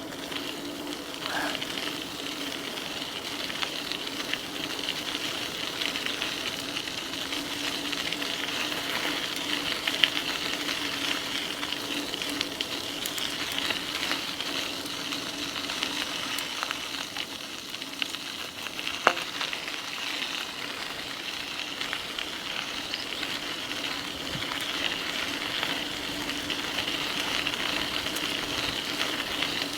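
E-bike rolling along a trail: a steady crackling hiss of the tyres on the path, with the low steady hum of its Bafang BBS02 mid-drive motor, which fades in the middle and comes back. Two sharp clicks, about ten and nineteen seconds in, as the bike goes over bumps.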